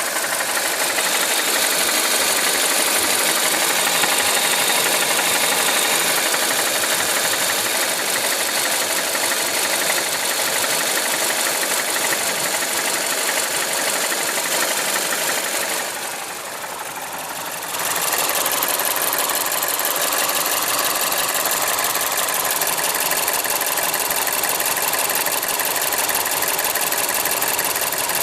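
Mazda CX-7's 2.3-litre turbocharged four-cylinder engine running with a knock, which the owner suspects comes from the camshaft gear, the variable valve timing actuator. The sound turns quieter and duller for about two seconds a little past the middle.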